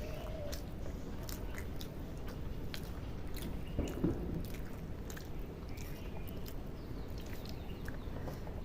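Close-up mouth sounds of people chewing rice and curry, with scattered short wet smacks and clicks.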